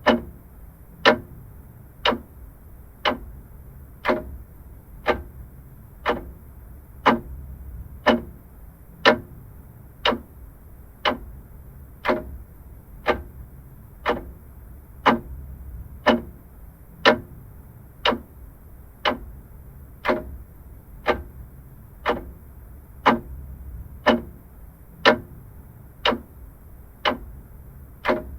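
Vintage mechanical clock ticking steadily, about one sharp tick a second.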